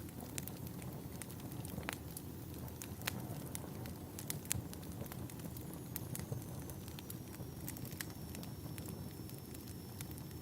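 Wood fire burning in a fireplace: a steady low rumble of the flames with irregular sharp crackles and pops of the burning logs. About halfway in, a faint high whistle starts and slowly sinks in pitch.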